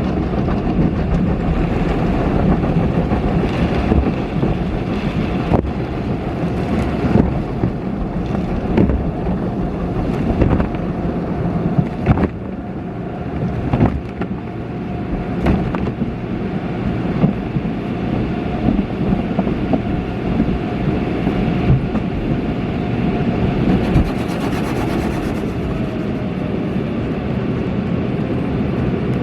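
An automatic car wash heard from inside the car: a steady machinery hum and a dense wash of spray and brushing noise over the body, with scattered knocks.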